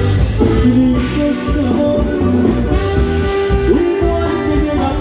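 Norteño band playing an instrumental passage with no singing: a held, sliding lead melody over bass and a steady beat.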